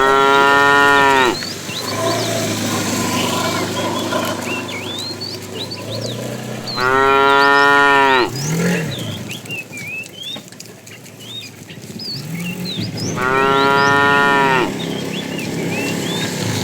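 Cow mooing: three loud, drawn-out moos about six seconds apart, each lasting over a second and sagging in pitch at its end, with quieter, lower moos from the herd in between.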